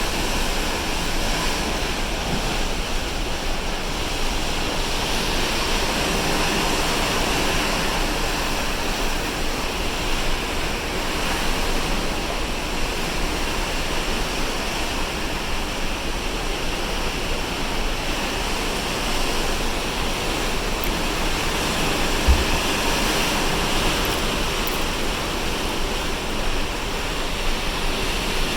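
Sea water rushing along the hull of a cruise ship under way, mixed with wind: a steady roar with a low rumble beneath, and one brief bump about two-thirds of the way through.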